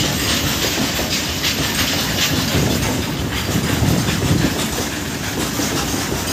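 Freight train of open-top wagons rolling past: a steady rumble, with the wheels clattering over the rail joints.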